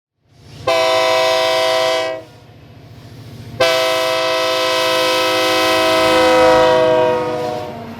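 East Troy Electric Railway dinner train sounding its horn: a short blast, then after a pause of about a second and a half a long blast of about four seconds, a chord of several steady tones, over a low rumble.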